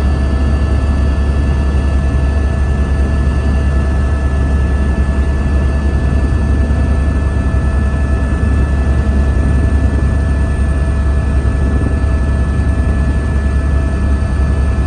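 Helicopter engine and rotor noise heard from on board: a loud, steady low drone with a few constant high-pitched whines over it.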